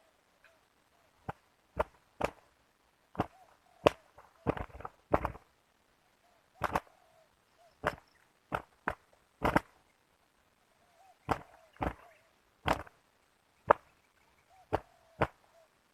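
Spotted doves fighting: sharp wing slaps come at irregular intervals, about eighteen in all, some in quick clusters. Faint soft cooing sits between them.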